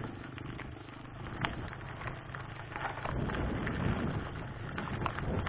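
Mountain bike rolling over a rough dirt trail: tyre crunch and scattered rattling clicks over a steady noise, with a low rumble of wind on the microphone growing louder about three seconds in.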